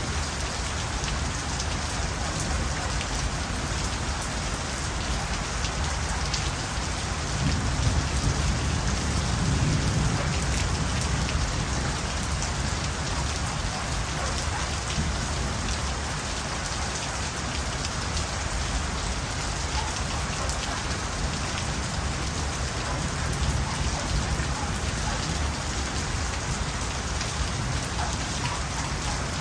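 Steady rain falling, a constant hiss with a fine patter of drops. A low rumble swells for a few seconds about a quarter of the way in.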